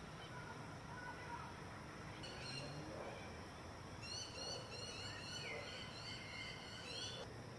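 A bird calling in a run of short, high, rising chirps: a couple about two seconds in, then about three a second from about four seconds in, until they break off suddenly near the end. The calls are faint over a steady background hiss.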